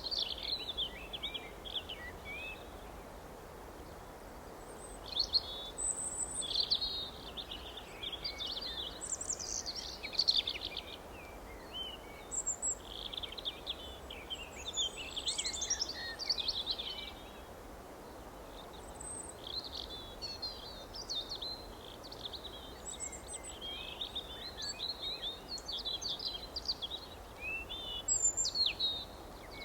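Wild songbirds chirping and singing in quick, overlapping phrases that come in clusters every few seconds, over a faint steady background hiss.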